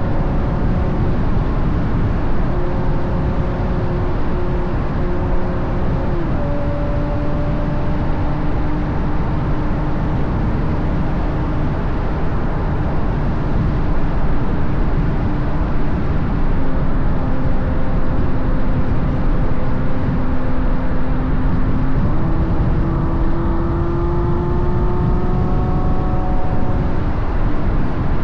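Ferrari GTC4Lusso's V12 with an aftermarket Capristo exhaust, running while the car drives along, under a heavy rush of wind and tyre noise on the outside-mounted microphone. The engine note drops with an upshift about six seconds in and climbs again a little after twenty seconds.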